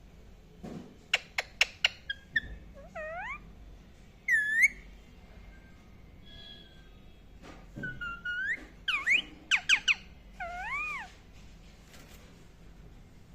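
Indian ringneck parakeet chirping: a quick run of sharp chirps, then rising whistled calls. A second group of chirps and up-and-down whistles comes about eight seconds in.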